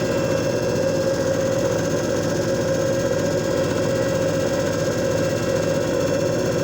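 JFJ Easy Pro disc repair machine running: its motor gives a steady, even hum with one strong constant tone over a low rumble.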